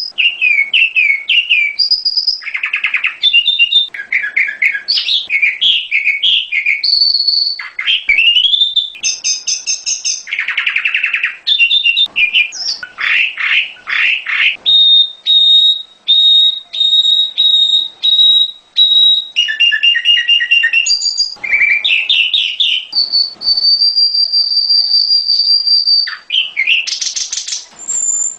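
Prenjak gunung (a prinia) singing loudly and without pause, in a varied string of quick chirps and warbled phrases. Near the middle it gives a run of short, evenly spaced high notes, and later one long, held high whistle. This is a recorded lure song played to make caged birds of the same kind answer and sing.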